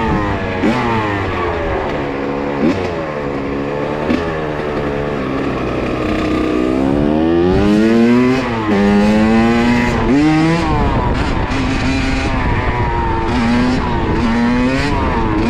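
Kawasaki KX85 two-stroke dirt bike engine revving up and down over and over as the throttle is worked for wheelies, with a long rise about seven seconds in and a drop just before nine seconds. Wind rumbles on the microphone underneath.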